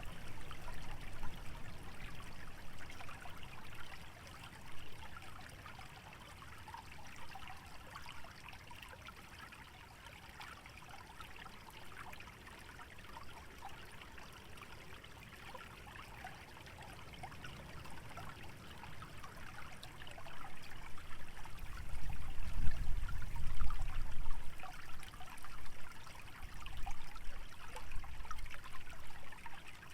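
Small stream trickling and splashing through a wetland, a steady water sound. A low rumble of wind swells at the start and again for several seconds about two-thirds of the way in, the loudest part.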